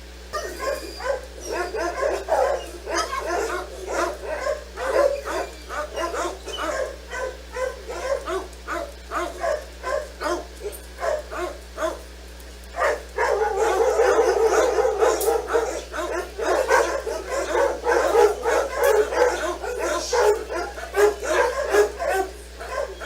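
Dogs barking in quick, repeated barks, several at a time. The barking thickens into overlapping barks about thirteen seconds in.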